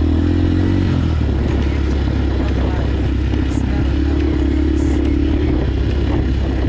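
Motorcycle engine running loud and steady, its pitch dipping about a second in and climbing again a few seconds later as the revs change.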